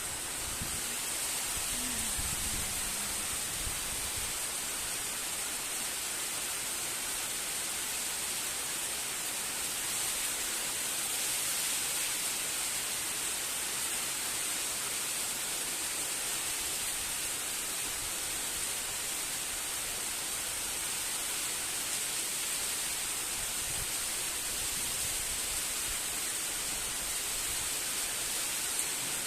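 Steady rain falling, an even hiss with no letting up.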